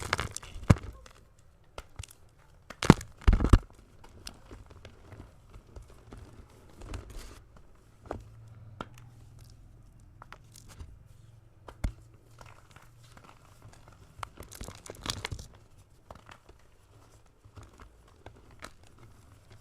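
A block of gym chalk being crushed by hand, giving irregular dry crunches and crumbly crackles, the loudest near the start, at about three seconds in, and a dense run of crunching near the three-quarter mark.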